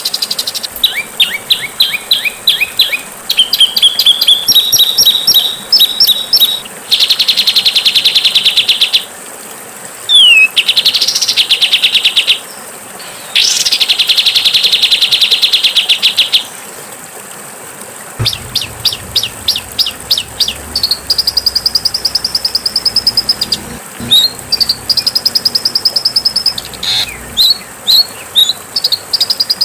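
Songbirds singing, a mix of loud, harsh phrases: fast runs of sharp chirps, long rattling trills, and a quick falling whistle, with short gaps between phrases and a faint steady high whine behind.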